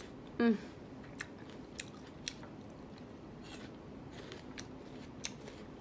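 A person chewing with the mouth close to the microphone, with a few sharp crunching clicks spaced about a second apart. A short vocal hum comes about half a second in.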